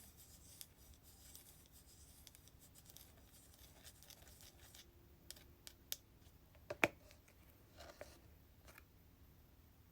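Fingernails tapping and scratching on hair-product containers: a soft scratchy rustle through the first half, then a few sharp separate taps, the loudest a little past the middle.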